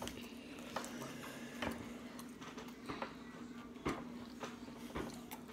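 Quiet eating sounds as pizza is chewed: scattered soft clicks and mouth smacks, the loudest about four seconds in, over a steady low hum.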